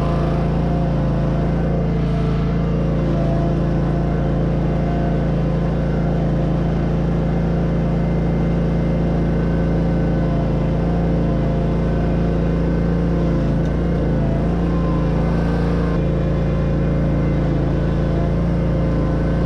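Bobcat riding mower's engine running steadily while the mower tows a bare truck chassis.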